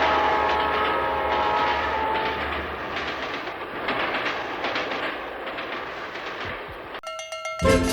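A train passing: a multi-note train horn sounds and fades out about two seconds in, over the rumble and clickety-clack of railroad cars that slowly dies away. Music starts near the end.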